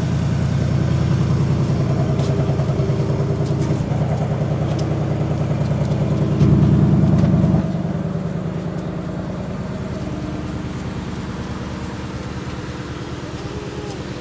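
Ford Mustang engine idling steadily, rising louder for about a second midway, then settling back.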